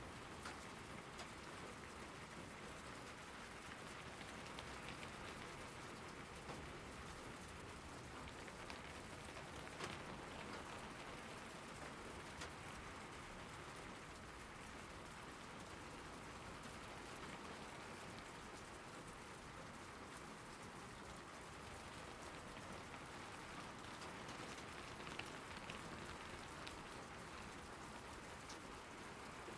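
Steady rain falling on a surface, with individual drops ticking sharply here and there.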